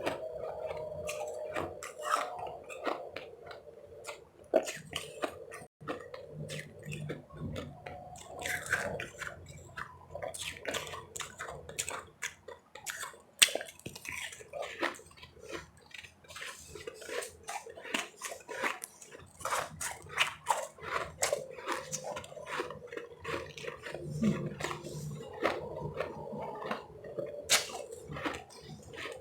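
Close-up chewing and crunching of powdery ice chips: many quick, crackly crunches in an irregular run.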